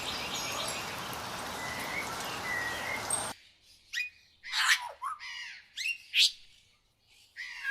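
Birds calling: faint chirps over a steady outdoor hiss, then an abrupt cut about three seconds in to a clean recording of loud, close bird calls, several separate sweeping chirps with short gaps between them.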